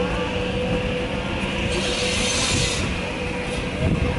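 Steady mechanical whine at one pitch over a low rumble, with a short burst of hiss lasting about a second, about two seconds in.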